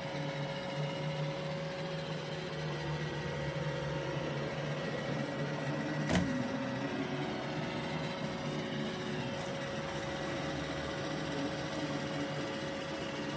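iRobot Roomba Combo i5 robot vacuum running with a steady motor hum, with a single sharp click about six seconds in.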